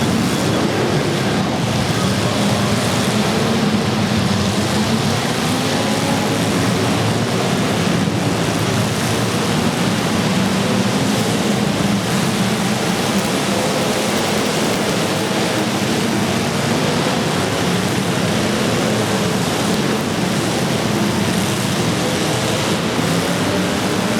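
Several demolition derby cars' engines running and revving together in a steady, loud din, their pitches wavering up and down.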